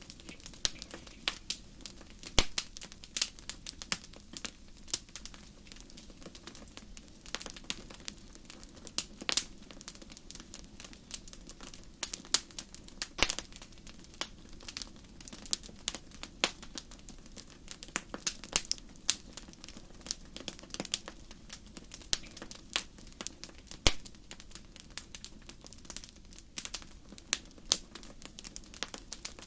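Fireplace fire crackling: irregular sharp pops and snaps, some much louder than others, over a faint steady low background.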